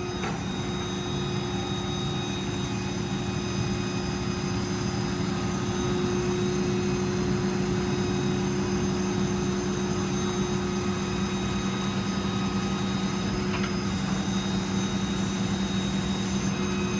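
The 6.7 Power Stroke diesel runs steadily, driving the hydraulics of a Stellar 7621 crane as it moves, with a constant machine whine over the engine. One of the tones drops away briefly near the end.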